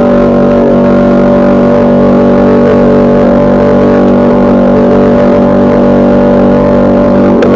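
Radio-controlled boat's electric motor running at a steady speed: an even, unchanging hum with a clear pitch. The sound breaks briefly just before the end.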